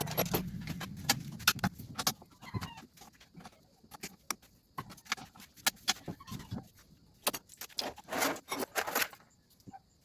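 Small metal parts and tools clinking and rattling as they are handled during a transmission teardown: scattered sharp clicks, with a busier clatter about eight seconds in.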